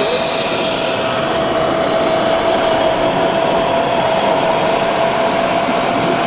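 Radio-controlled scale construction machine running: a steady high whine over an even hiss, with no change in pace.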